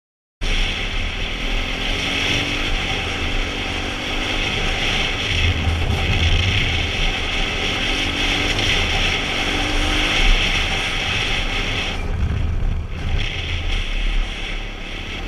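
125cc dirt bike engine running while riding, cutting in abruptly just after the start, its pitch climbing in short runs several times as the throttle is worked, with wind rumble on the action camera.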